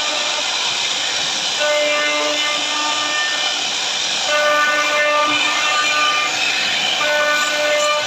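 CNC router cutting wood: a steady cutting hiss with a pitched whine that sounds in stretches of a second or two and drops out between them.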